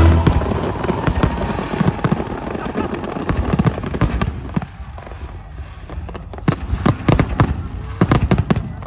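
Fireworks going off: a run of sharp cracks and pops that thins out in the middle and comes thick and fast over the last couple of seconds.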